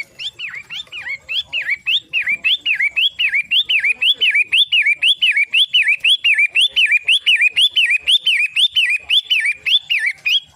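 Long-tailed shrike (pentet) calling: a loud, rapid string of repeated slurred phrases, each sweeping up and down, about three a second, stopping abruptly near the end.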